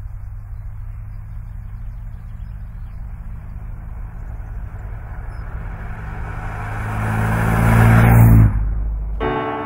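1967 Aston Martin DB6 Vantage's straight-six engine running steadily as the car drives, growing louder to a peak about eight seconds in, then cutting off abruptly.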